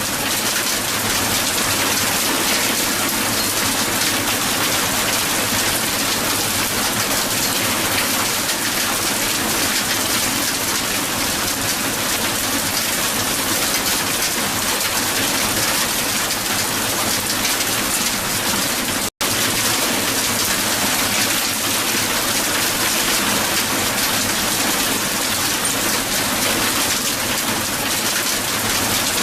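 Hail falling steadily and densely on a hard surface: a continuous patter of many small ice impacts. It cuts out for an instant about two-thirds of the way through.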